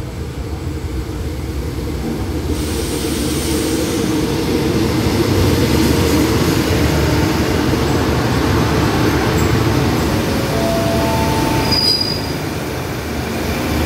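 Passenger train pulling into a station and braking: the rumble of wheels on rails grows louder as the coaches roll past, and near the end come a few short, high brake squeals as it slows to a stop.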